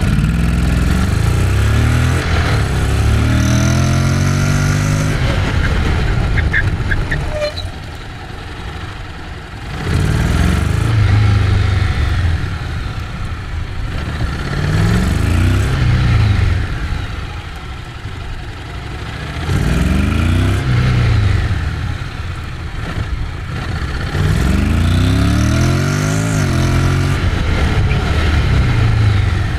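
Honda X-ADV 750's parallel-twin engine surging up in pitch and dropping back about five times, short hard bursts of throttle between tight turns and braking.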